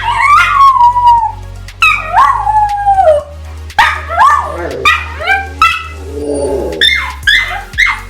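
Old English Sheepdogs howling: several long calls that slide down in pitch, then a string of short, high yips near the end.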